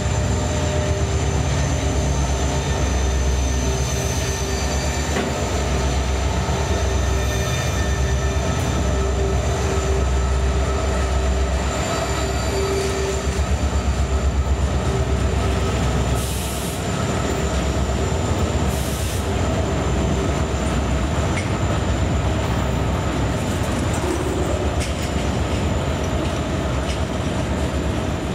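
Diesel-hauled CSX freight train rolling past close by: a low diesel locomotive engine rumble and the clatter of rolling freight cars, with steady high-pitched wheel squeal from the rails. It is loudest about halfway through, as the locomotive goes by.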